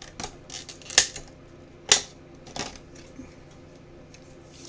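Trading cards being handled on a table: a few sharp clicks and taps, the two loudest about one and two seconds in, with lighter ticks between.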